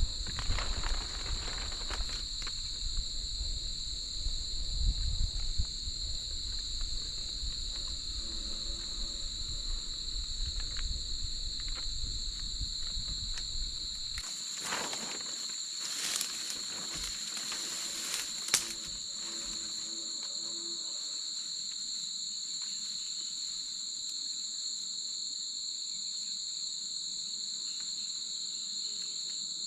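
Steady insect chorus, a continuous high trill holding two unchanging pitches. A low rumble underlies it for about the first half and cuts off suddenly; a little past the middle come a few sharp knocks and rustles, the loudest a single snap.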